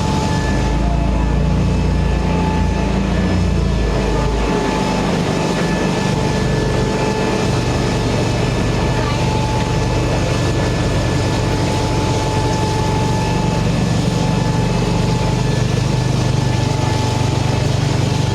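Steady din of a busy market: a low machine-like rumble with a thin, steady whine over it and some voices underneath. The rumble is heavier for the first few seconds, then settles into an even hum.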